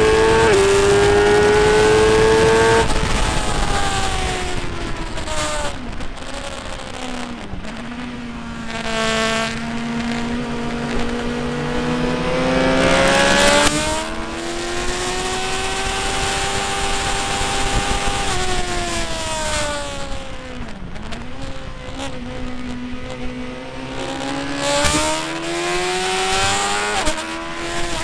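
Motorcycle engine at speed on track, its pitch climbing under acceleration and dropping sharply at gear changes and braking, over steady wind noise. The engine winds down about three seconds in, builds again to a peak near the middle, falls away around twenty seconds, then rises once more near the end.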